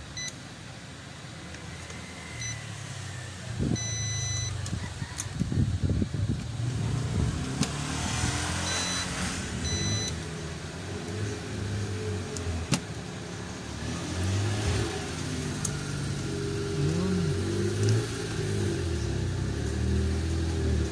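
A motor vehicle's engine rumbling low and unevenly, its pitch shifting. Short high electronic beeps sound a few times, in pairs about 4 s and 9 s in, and a few sharp clicks come through.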